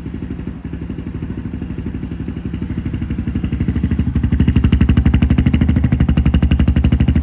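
Honda CRF250F's single-cylinder four-stroke engine idling through its stock exhaust, a steady, rapid pulsing note that grows louder about four seconds in.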